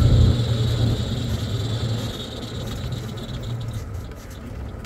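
Off-road 4x4's engine pulling the vehicle uphill in four-wheel-drive high range, with its low range not engaging. It is loudest at first, eases off within the first half second, then runs lower and steady.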